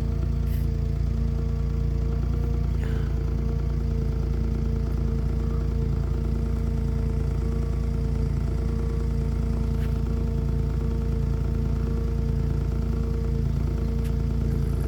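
A motor vehicle's engine idling steadily, a constant hum over a low rumble, with a few faint ticks.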